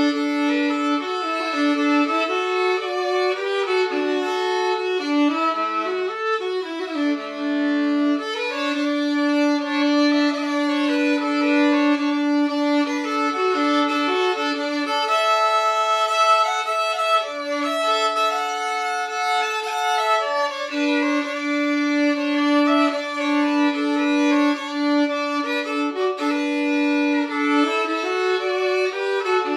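Solo violin playing a fiddle tune with double stops over a recurring held low note. The instrument is a Hopf-stamped trade violin, c.1890, re-voiced with a double bass bar and newly fitted with steel strings.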